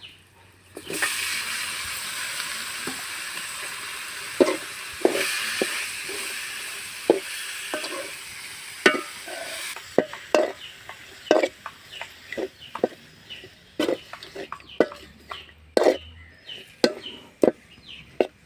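Onion-and-spice masala sizzling as it fries in a pan, stirred with a spoon that scrapes and knocks against the pan. The sizzle starts about a second in and dies away about halfway through, leaving the stirring strokes.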